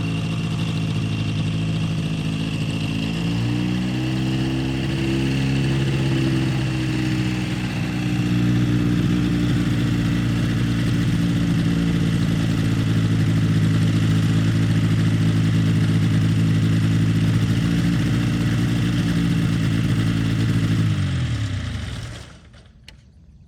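CGS Hawk ultralight aircraft's engine running, picking up speed a few seconds in and holding steady, then winding down and shutting off about two seconds before the end.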